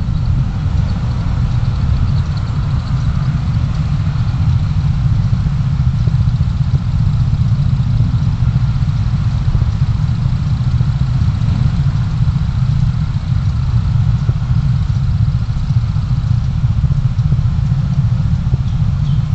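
Steady low rumble of a car's engine and road noise, picked up inside the cabin by a dashcam microphone.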